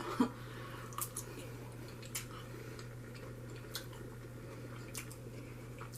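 Someone chewing food, with a few soft mouth clicks and smacks about a second apart over a steady low hum.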